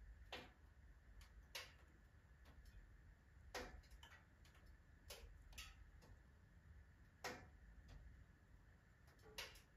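Firewood burning in a wood stove, crackling with sharp pops at irregular intervals, roughly one every one to two seconds.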